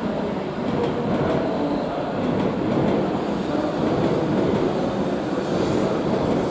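Shinkansen bullet train running along the station tracks: a steady rush and rumble of wheels and motors.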